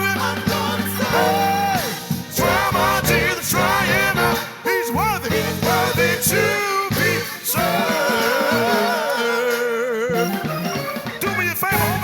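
Live gospel song with a band playing and a singer's voice sliding and bending through wordless runs over it.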